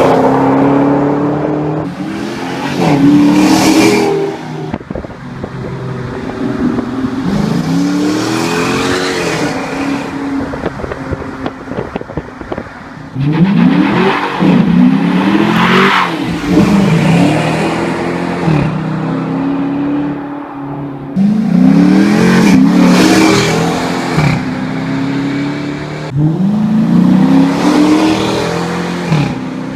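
Dodge Charger R/T's 5.7-litre Hemi V8 through Flowmaster 40 mufflers with the resonators deleted, accelerating hard several times. The exhaust note climbs in each gear and drops at each upshift, then eases back to a steadier cruise between runs.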